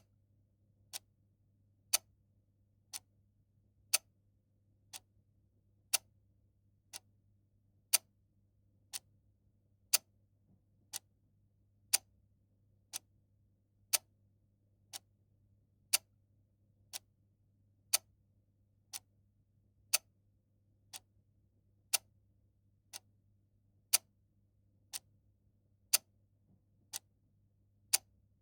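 Clock ticking steadily once a second, the ticks alternating louder and softer in a tick-tock pattern, over a faint steady low hum.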